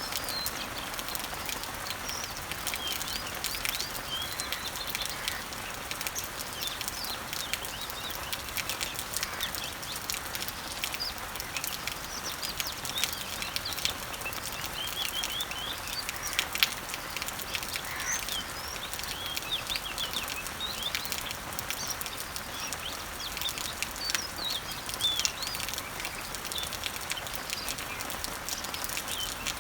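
Summer rain falling on garden leaves and trees as a steady hiss of many small drop ticks, with birds chirping in short, high, repeated calls throughout.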